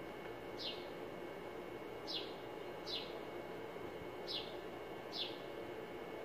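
A bird chirping: five short chirps, each falling quickly in pitch, a second or so apart, over a steady low background hum.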